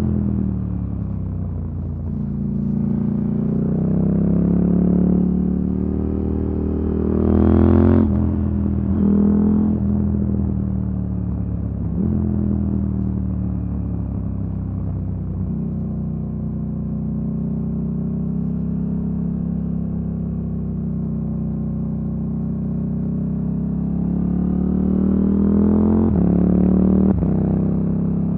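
KTM Duke 890 R parallel-twin with an Akrapovic silencer and decat pipe, under way. It rises in pitch as it accelerates, drops sharply at a gear change about a third of the way in, eases off, cruises steadily, and snaps through two quick upshifts near the end.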